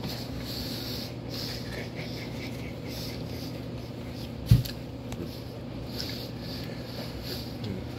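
A man chewing a mouthful of raw onion: soft, irregular crunching and wet mouth sounds. About halfway through comes a single loud thump.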